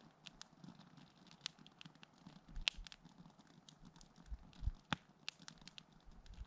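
Wood campfire crackling: irregular small pops and snaps, with two sharper pops, one near the middle and one about two seconds later.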